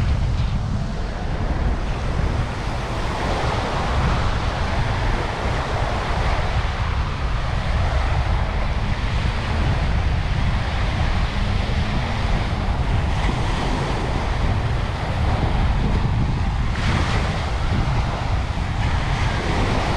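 Waves washing onto a sandy beach, with wind buffeting the microphone in a constant low rumble.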